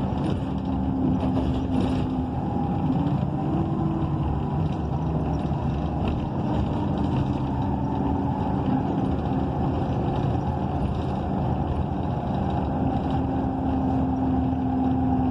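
Interior of a 2012 ENC EZ Rider II BRT transit bus under way: its Cummins Westport ISL G natural-gas engine and Allison B300R automatic transmission running steadily over road rumble, with a whine that shifts in pitch now and then as the bus changes speed.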